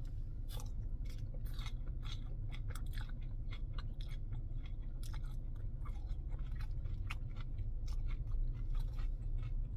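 A man chewing a mouthful of chow mein noodles and vegetables, close to the microphone: many small wet mouth clicks and smacks. A steady low hum runs underneath.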